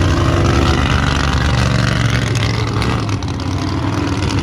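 Monster truck engine running with a steady low rumble that eases off a little about three seconds in.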